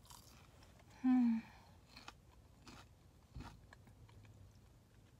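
Close-up mouth sounds of chewing food. About a second in there is a short hummed "mm", the loudest sound. Later come a few faint clicks and one low thump.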